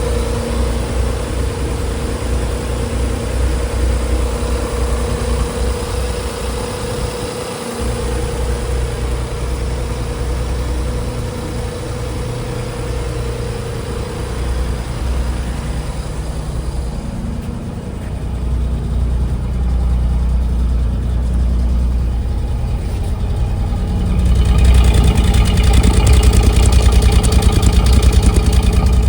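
1990 Nissan 300ZX's 3.0-litre V6 idling steadily. About three-quarters of the way through, it grows louder and brighter.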